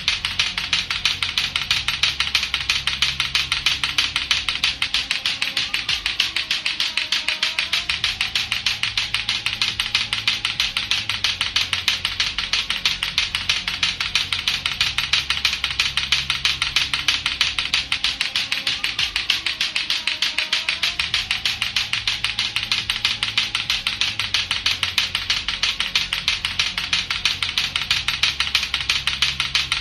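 Lato-lato clackers, two hard plastic balls on a string knocking together in a fast, even, nonstop clacking rhythm.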